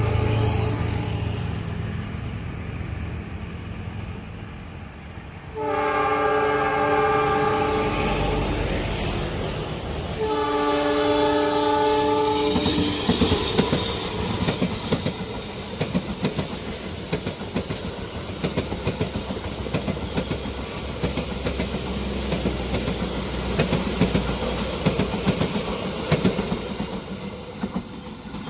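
Diesel locomotive approaching with a low engine rumble, then sounding its horn in two long blasts, several tones at once, about six and ten seconds in. The train then passes close by, its wheels clacking over the rail joints in a fast, uneven rhythm.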